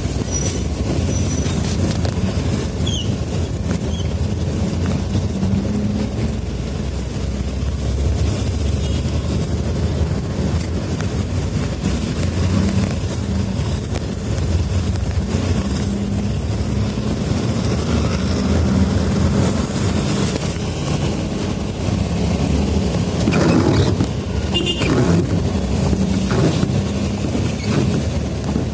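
Steady low rumble of a road vehicle on the move, with engine and road noise, and a short burst of sharper sounds near the end.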